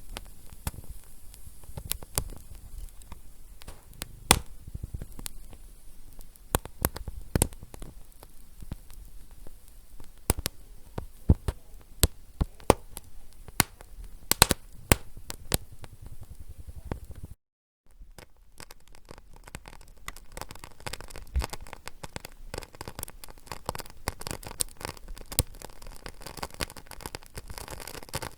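Wood fire crackling and popping: irregular sharp snaps over a low steady hiss. The sound cuts out completely for a split second about two-thirds of the way through.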